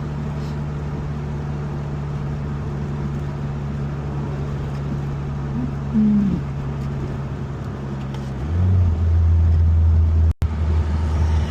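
Turbocharged 4G63 four-cylinder of a 1995 Mitsubishi Eclipse GSX running steadily while cruising. About eight and a half seconds in, its note drops lower and gets louder, and the sound cuts out for an instant near the end.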